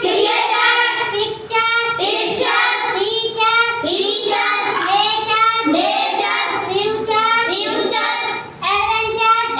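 A class of children chanting English '-ture' words together in unison, in a loud, high, sing-song voice, one word after another with hardly a pause.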